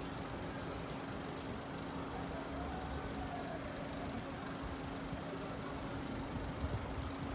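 Street traffic with a vehicle engine idling: a steady low hum over general road noise.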